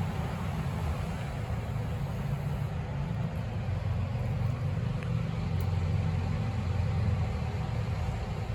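Scania K270UB bus's diesel engine idling, a steady low rumble.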